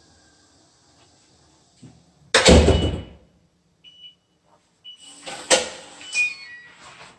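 A door being opened and shut: a heavy thump about two and a half seconds in and another knock about five and a half seconds in. Short electronic beeps fall between and after them, the last few stepping down in pitch.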